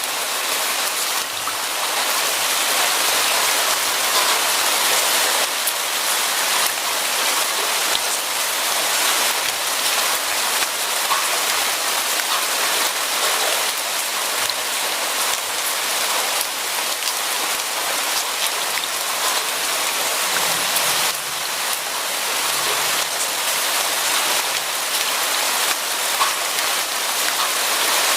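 Steady heavy rain falling on surfaces, a dense even hiss with scattered individual drop ticks.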